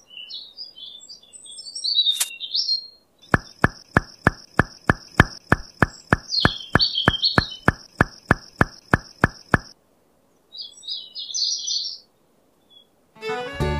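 Small birds chirping in short, high calls. From about three seconds in, a very regular series of ticks at about three and a half a second runs for some six seconds under a steady high tone, with more chirps over it and again near the end.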